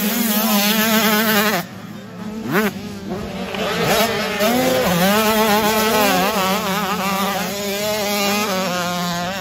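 85cc two-stroke motocross bikes racing, their engines revving up and down with the throttle and gear changes. There is a quick rising rev about two and a half seconds in.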